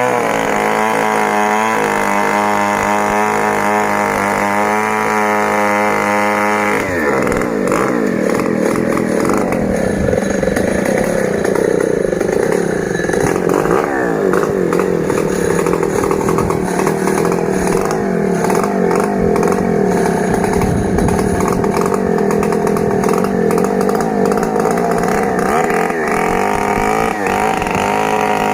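Stihl 070 two-stroke chainsaw running at high revs; about seven seconds in its pitch drops and then wavers at a lower pitch as the engine is loaded in the cut through the sengon log.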